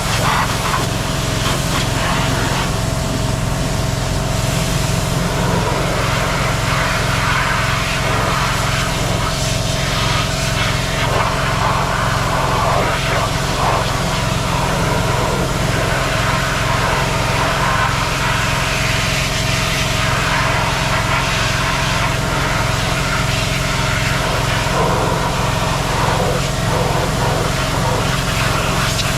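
An engine running steadily at a constant speed, with an even, pulsing low note.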